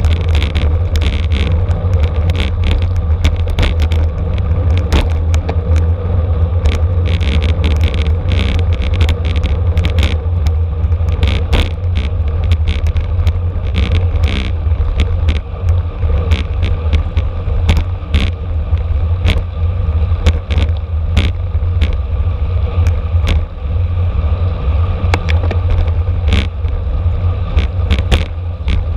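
Wind buffeting and road rumble on a camera riding on a racing bicycle in a criterium, with frequent sharp rattling clicks from the bike and its mount.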